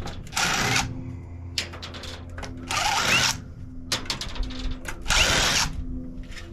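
Cordless power drill backing screws out of a golf cart battery charger's casing: three short runs of the motor, each spinning up, with small clicks and rattles between them.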